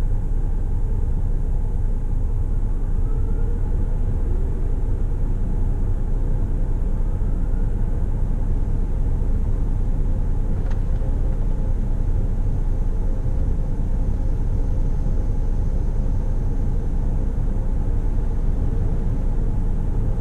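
Mark VII ChoiceWash XT touch-free car wash gantry making an empty pass, moving along without applying anything: a steady low rumble heard from inside the car's cabin. A few faint rising whines come in the first several seconds, and a single faint tick about halfway through.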